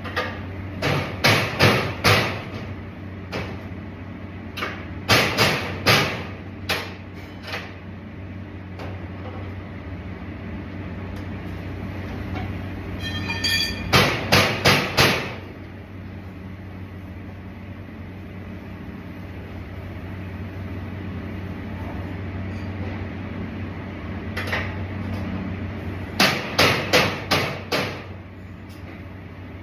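Hammer striking metal in quick bursts of four to six blows, repeated four times, over a steady low hum.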